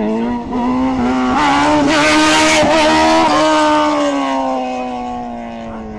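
Honda CBR1000 sport bike's inline-four engine revving up under hard throttle, loudest two to three seconds in, then its pitch slowly drops and it fades as the throttle comes off or the bike moves away.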